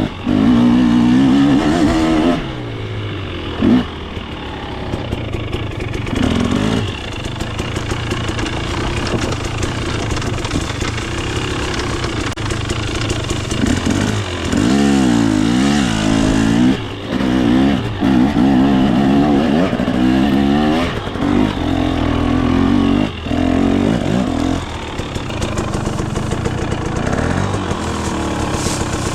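KTM 250 XC's single-cylinder two-stroke engine revving up and down under a working throttle. The throttle is repeatedly opened and chopped, with short drops in revs every few seconds.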